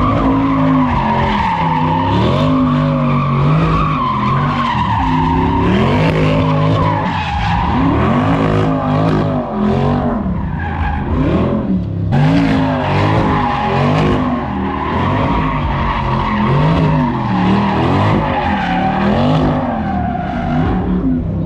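A car doing donuts: its engine revs rise and fall over and over while the tyres squeal steadily as they spin on the pavement.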